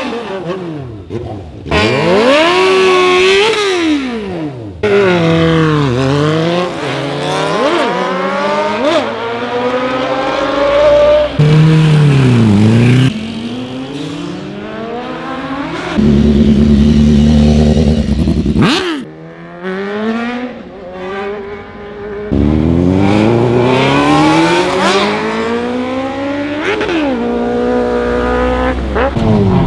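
Several sportbike engines, one after another, revving hard and accelerating through the gears, their pitch climbing and dropping at each shift. Some bikes sweep past with a rise and fall in pitch. In the middle one engine holds a steady high rev for a few seconds.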